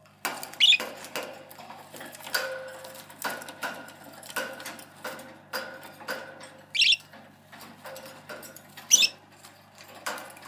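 Young budgies chirping in their cage: a steady run of short chirps, about two a second, with three louder, higher calls, one near the start and two in the last few seconds.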